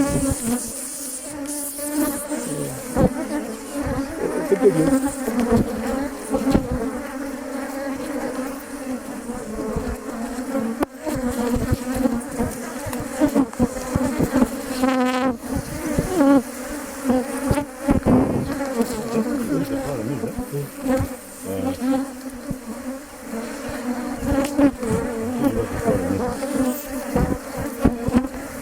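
A mass of honeybees buzzing around an opened Langstroth hive: a loud, steady droning hum, with occasional sharp knocks and scrapes from the frames being worked.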